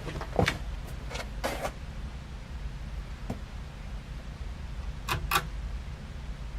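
Ceiling fan running on slow with a steady low hum. A few short clicks and knocks come over it, a cluster in the first two seconds and two more a little past five seconds.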